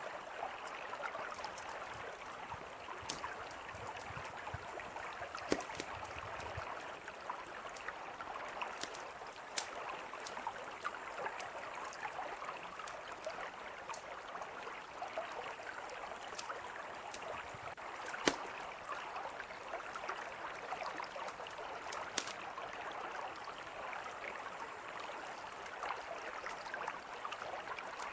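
A mountain river flowing with a steady rushing sound, with a campfire crackling over it: scattered sharp pops, a few of them louder.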